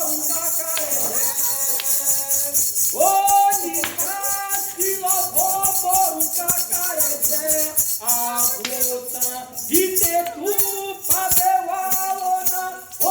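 Voices singing a Candomblé chant (cantiga) in turns of phrase, over a steady rhythm of rattling percussion and struck beats.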